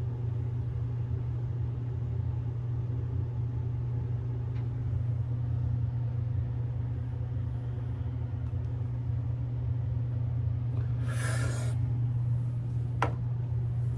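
A steady low hum that runs unbroken, with a brief hiss about eleven seconds in and a single sharp click near the end.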